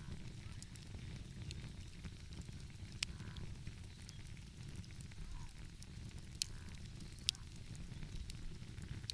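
Wood fire crackling, with scattered small ticks and three sharper pops about three, six and a half and seven seconds in, over a steady low rumble.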